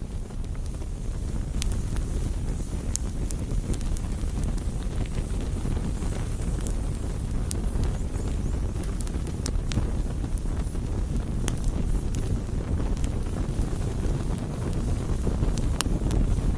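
Campfire burning: wood crackling with sharp, irregular pops scattered through, over a steady low rumble.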